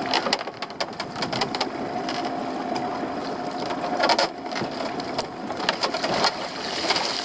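A motor on a small fishing boat running steadily at a constant pitch, with frequent sharp clicks and knocks over it.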